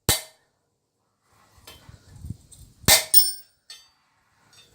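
Hammer blows on steel as a stuck slug is driven out of the tong stock with a punch: one sharp strike at the start and a louder one about three seconds in that rings briefly, with lighter taps between and after.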